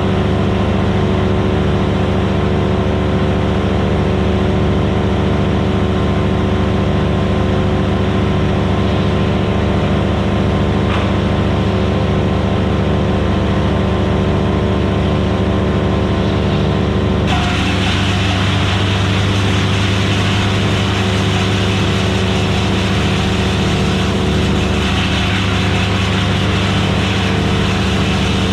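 Vermeer BC1000XL wood chipper's gas engine running steadily at speed. About two thirds of the way through the sound changes suddenly, gaining a hiss in the upper range while the engine's note carries on.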